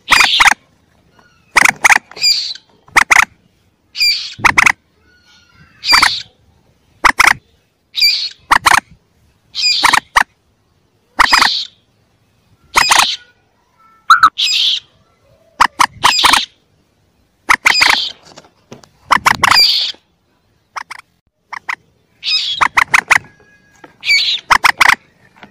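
Common moorhen calls played as a hunting lure recording: short, sharp calls repeated about once a second, sometimes two or three in quick succession, loud throughout.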